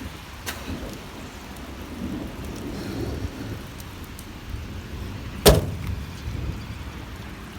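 Rain and hail coming down in a steady hiss, with a low rumble underneath. One sharp knock comes about five and a half seconds in.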